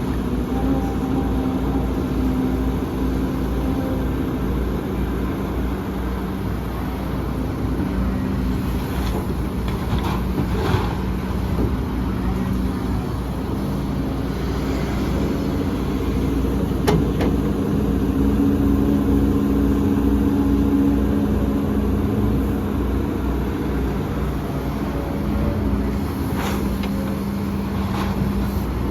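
Heavy diesel earthmoving machinery running steadily at a work site, its engine pitch shifting a little as it works. A few short metallic knocks and clanks come at intervals.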